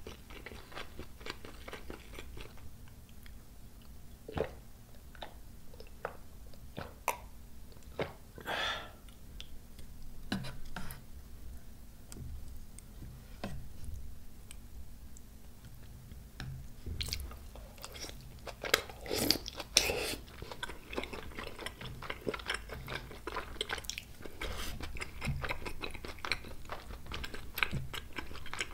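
A person chewing spicy tteokbokki close to the microphone: wet mouth sounds with many short sharp clicks, and a louder run of chewing about two-thirds of the way through.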